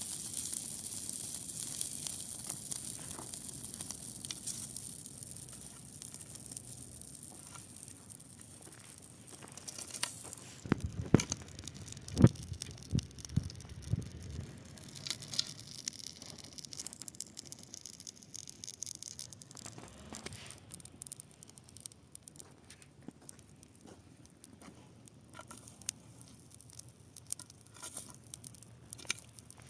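Dry grass fire burning: a hiss that fades over the first several seconds, then irregular crackles and pops, with a few sharp loud snaps about halfway through.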